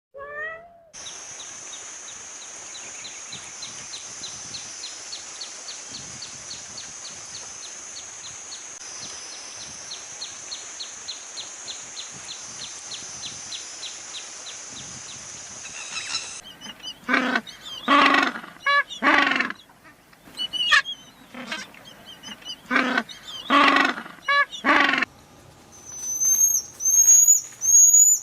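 A run of different animal sounds. A call ends just after the start. Then comes a steady high drone with regular ticks for about fifteen seconds, then about a dozen loud repeated calls, and high chirps near the end.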